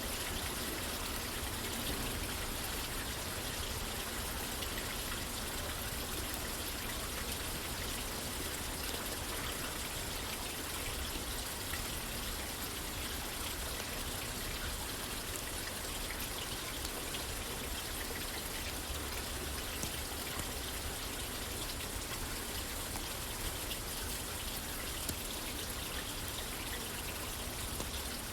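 Steady rain falling on a roof, an even hiss, with scattered faint ticks and one slightly louder tick near the end.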